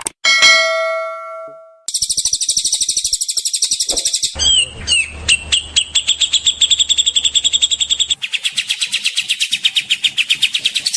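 A ringing chime-like tone that fades away, then a loud songbird's song: long runs of rapid, harsh, high-pitched notes, many a second, changing pattern twice.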